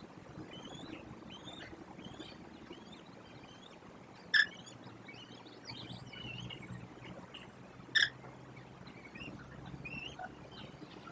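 Bird calls: many faint chirps throughout, with two loud, sharp single calls about four and eight seconds in, over a low steady hum.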